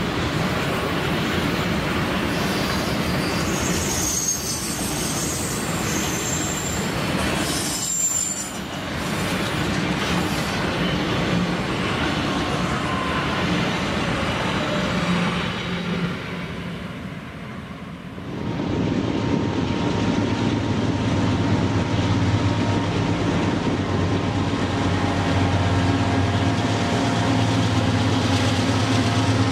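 Freight train rolling past, wagons rumbling over the rails with high-pitched wheel squeal in the first half. After a brief dip about two-thirds through, a steady low engine drone takes over.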